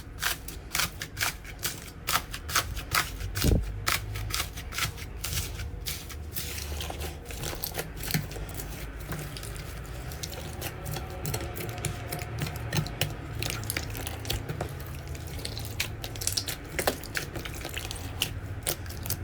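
Slime being pressed and squeezed by hand, giving rapid crackles, clicks and small pops. The clicks come thickest in the first few seconds, then thin out into a softer, steadier squishing.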